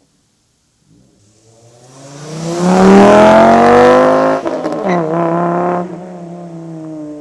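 VW Rabbit MK5's five-cylinder engine through an AWE cat-back exhaust and USP test pipe, accelerating hard. The note swells up from near silence and climbs in pitch, dips briefly at a gear change about four and a half seconds in, pulls again, then backs off to a quieter, steady note about six seconds in.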